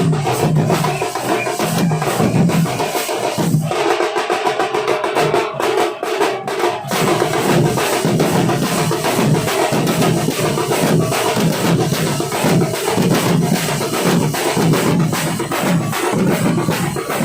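Nasik dhol troupe playing dhol drums in a fast, steady beat. About four seconds in, the deep drum strokes stop for a few seconds while the higher drumming carries on, then the full beat comes back.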